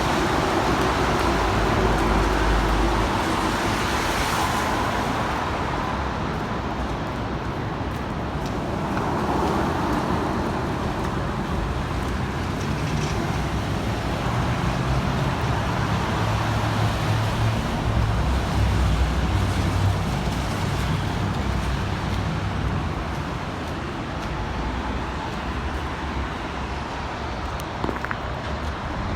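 Road traffic: cars passing one after another, their tyre and engine noise rising and fading several times over a steady rumble.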